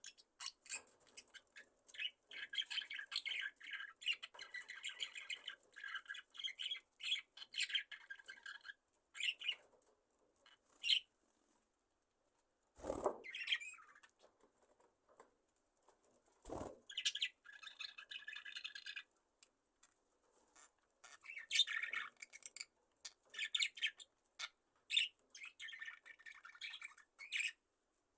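A flock of budgerigars chattering and chirping in bursts with short quiet gaps. Two sharp knocks stand out near the middle.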